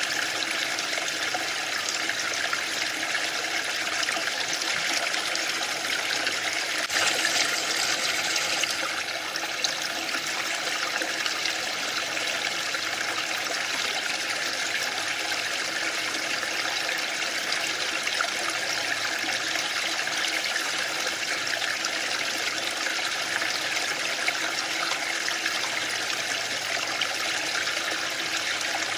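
Waterfall rushing in a steady, even roar of falling water, briefly a little brighter and louder about a quarter of the way through.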